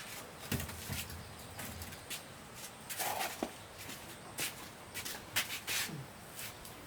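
Irregular rustling with scattered light knocks and clicks, about a dozen spread unevenly, a few with a dull thump underneath.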